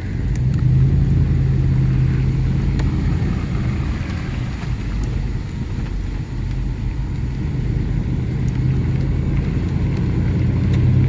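Vehicle engine and road noise heard from inside the moving vehicle: a steady low hum that eases a little in the middle and strengthens again over the last few seconds.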